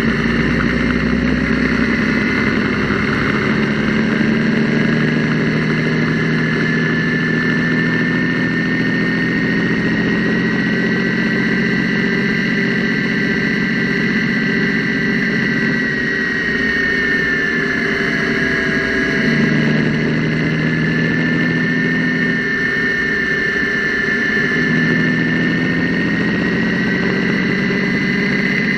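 Gasoline engine running steadily, with a high steady tone over the engine hum. The top-end noise it makes was first suspected to come from the lifters, rockers or mechanical fuel pump; the owner now thinks it is a tired or weak valve spring.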